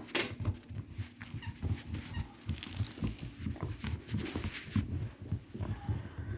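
Dog chewing and gnawing on a toy: a steady run of irregular soft clicks and crunches.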